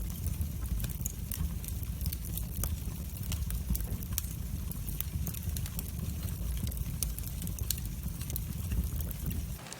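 Wood fire burning, with frequent sharp crackles and pops over a low steady rumble. The rumble cuts off suddenly near the end.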